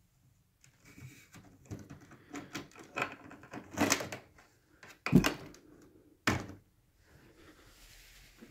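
Hard plastic clicking and rattling as the switched-off upright vacuum is handled, with a short scrape, then two sharp knocks about five and six seconds in, the first the loudest.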